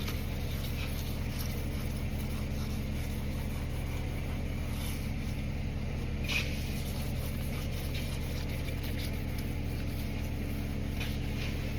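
A steady, even low machine hum, like a motor running in a workshop, with a few faint light scrapes or clicks, one a little louder about six seconds in.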